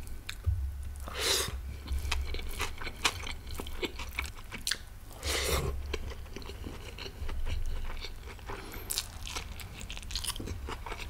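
Close-miked chewing and biting of food, with many short wet mouth clicks and two longer, louder bites or crunches, one about a second in and one around the middle.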